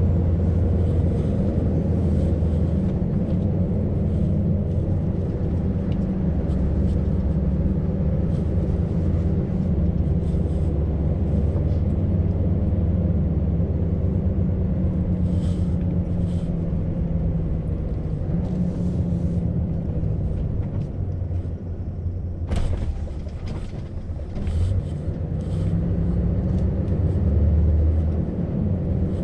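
Scania V8 truck engine running steadily under way, with road noise. About two-thirds of the way through the engine note drops briefly and there is one sharp click.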